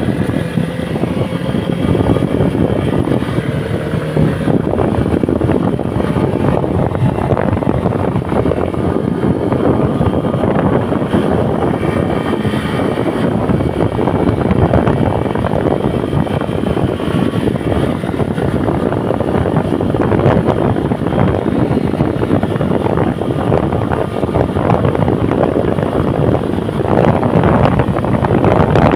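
Okami 250 motorcycle riding on the road: steady wind noise buffeting the microphone over the running engine, with the engine pitch rising slightly near the start.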